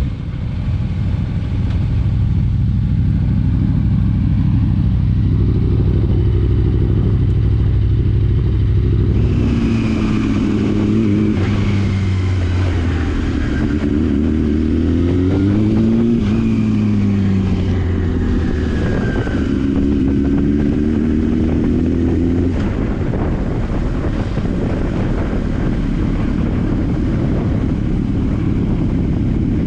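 Motorcycle engine running continuously. For the first several seconds it holds a steady low drone; from about ten seconds in its pitch climbs and falls repeatedly for some twelve seconds as it revs up and eases off, before settling back to a steady drone.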